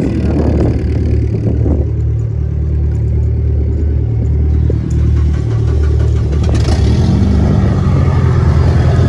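Car engine idling with a loud, steady low drone; about six and a half seconds in the revs rise briefly and the engine stays louder afterwards.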